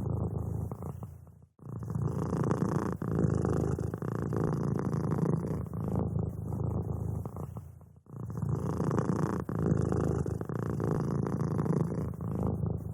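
Domestic cat purring steadily, a low rapid rumble with breaks about every six and a half seconds, where the cat draws breath.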